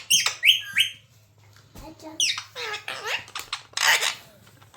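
Pet parrot calling: a few short chirps and squawks in the first second, a longer warbling call a couple of seconds in, and a harsh squawk near the end.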